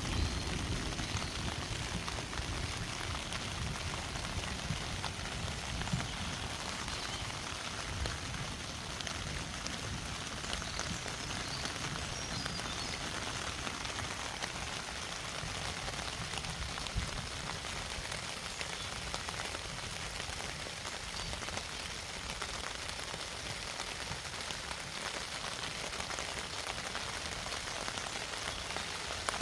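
Steady rain falling, individual drops ticking over an even hiss, with a low rumble in the first moment.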